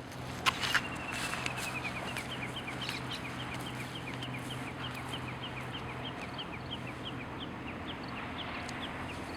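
A bird calling a long series of short high notes, evenly spaced at about three a second, over a steady rushing background. Two sharp knocks come about half a second in.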